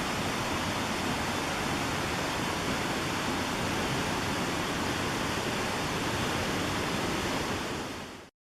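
Steady rush of a waterfall's falling water, fading out quickly near the end into silence.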